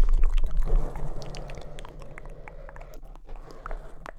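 Close-miked ASMR mouth sounds: wet clicks and smacks, loudest in the first second and then quieter.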